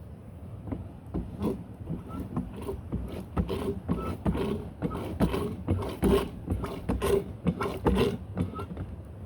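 Irregular knocking and clattering, a few knocks a second, growing denser toward the middle.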